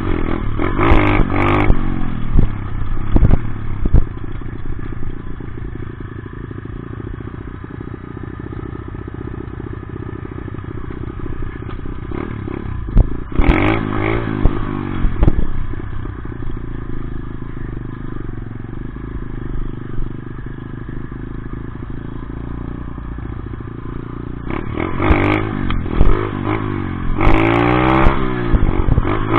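Dirt bike engine running, revving up and down in pitch near the start, around the middle and again toward the end, with steadier, quieter running in between.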